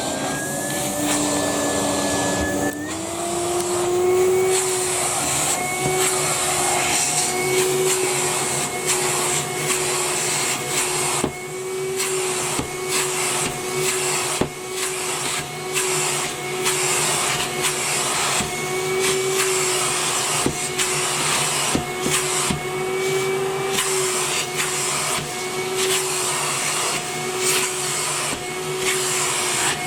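Henry vacuum cleaner motor running, its whine still climbing to full speed in the first few seconds, then holding steady with a slight waver in pitch. Occasional light knocks sound throughout.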